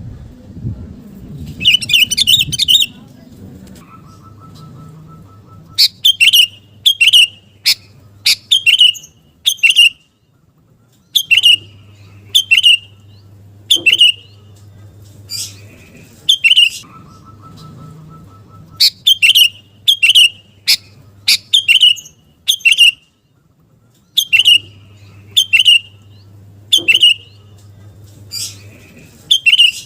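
Sooty-headed bulbul (kutilang) singing: short, loud, bubbly calls about one a second, in runs of several separated by pauses. A faint steady buzzing tone fills some of the gaps.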